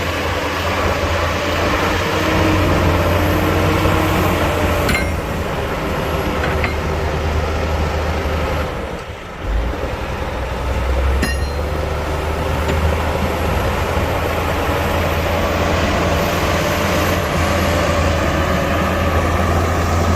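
Heavy diesel earthmoving machinery running steadily under load, with two sharp knocks about five and eleven seconds in and a brief drop in level around nine seconds in.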